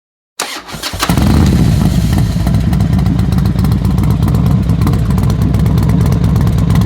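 Motorcycle engine being started: the starter cranks briefly, the engine catches about a second in, then runs at a steady idle with its strongest sound low in pitch.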